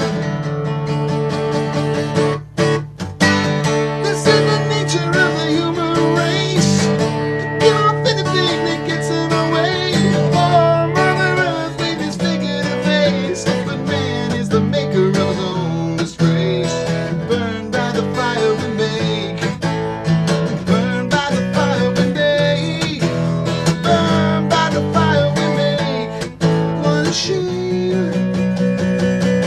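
Acoustic guitar strummed and picked in an instrumental passage of a song, with a wavering melody line over the chords.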